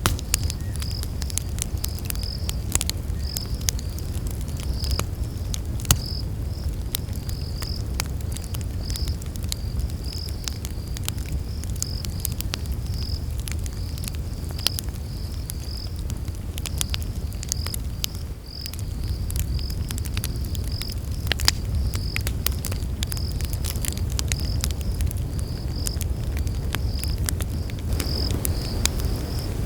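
Campfire crackling, with scattered sharp pops over a steady low rush of burning, while night insects chirp steadily at a high pitch, about two chirps a second.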